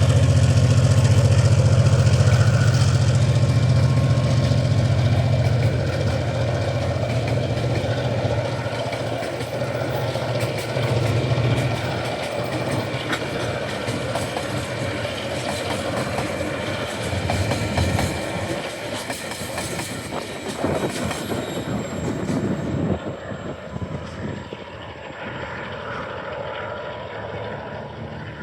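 Loaded freight wagons of a coal and container train rolling past, their wheels clicking and clattering on the rails. The low, steady drone of the hauling diesel locomotive fades away over the first dozen seconds, and the whole sound grows slowly quieter as the train moves off.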